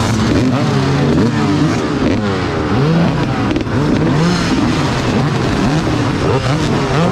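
Several motocross bikes racing together, their engines revving up and dropping back over and over as the riders accelerate and change gear.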